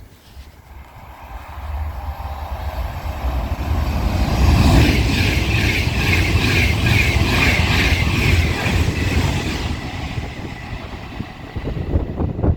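A train passing: a low rumble builds over a few seconds, peaks for about five seconds with a fast rhythmic clatter, then fades.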